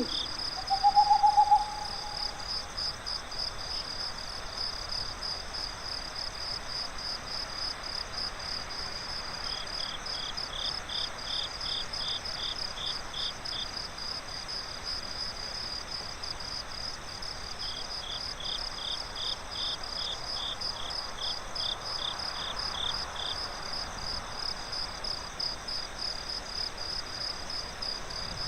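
Night forest ambience: crickets chirping steadily in a rapid pulsing trill, with a single owl hoot about a second in. A second, lower-pitched insect chirps in two bouts in the middle.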